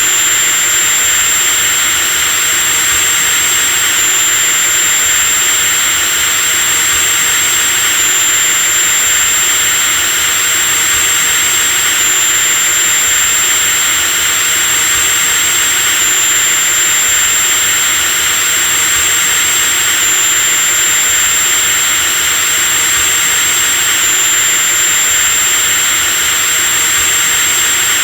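Electric drill motor running continuously at steady high speed: a loud, even hiss with a thin high-pitched whine on top that shifts slightly about every four seconds.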